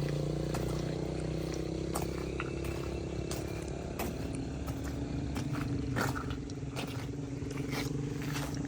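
Heavy truck's diesel engine running at low revs, its pitch dipping slightly midway and rising again near the end, with scattered light clicks and knocks.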